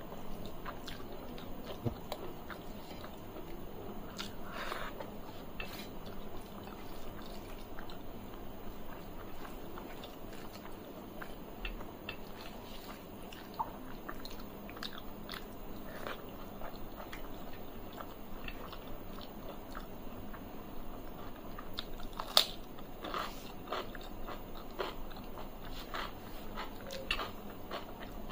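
A person chewing mouthfuls of rice and curry eaten by hand, close to the microphone, with many small wet mouth and finger clicks as the food is mixed on a metal plate. One sharper click stands out about three-quarters of the way through.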